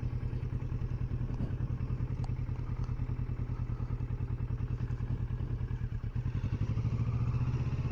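2020 Kawasaki Versys 650's parallel-twin engine running at a steady, low road speed, its exhaust pulsing evenly. It grows a little louder about two-thirds of the way through.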